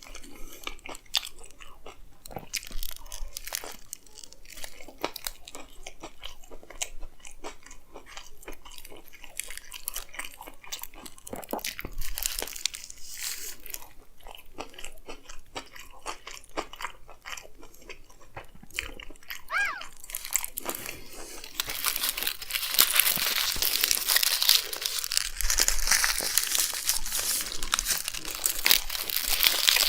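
Close-up chewing and biting of a chicken frankie wrap: a steady run of small wet crunches and mouth clicks. About two-thirds of the way through, loud crinkling of the wrapper takes over.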